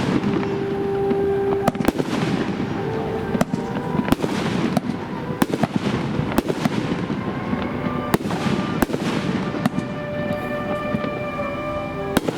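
Aerial fireworks bursting in a steady string of sharp bangs, about one a second or faster, each followed by a crackling, echoing tail.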